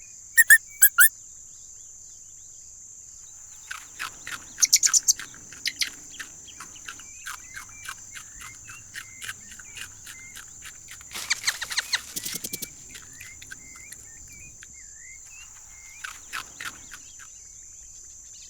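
Small birds chirping and twittering in scattered bursts, busiest about four to five seconds and eleven to twelve seconds in, over a steady high-pitched insect drone.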